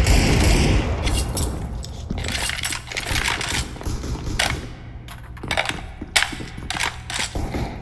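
Thunder rumbling and fading away over the first couple of seconds, followed by scattered sharp taps and clicks.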